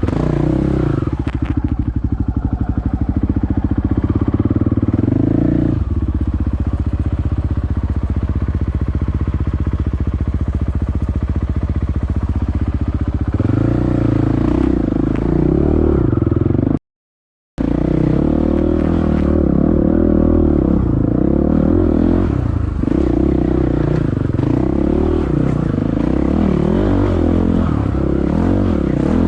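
Dirt bike engine running under load while riding a trail: fairly even for several seconds, then rising and falling with throttle changes. The sound cuts out completely for about half a second a little past the middle.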